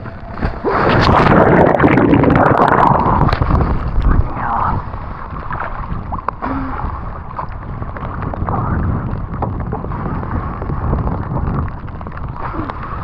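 Wind buffeting the microphone with water splashing and rushing, loudest for a few seconds about a second in, then settling to a steadier rush.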